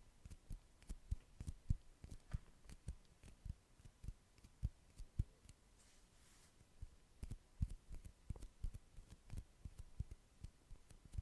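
Faint close-up ASMR mouth sounds: soft, irregular clicks and smacks, a few a second.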